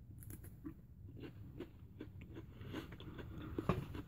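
A person chewing a bite of cracker topped with canned chicken bologna: faint, irregular crunching and small clicks of chewing.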